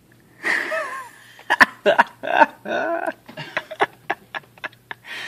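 People whooping and laughing excitedly, a rising-and-falling whoop about half a second in followed by a run of short bursts of laughter.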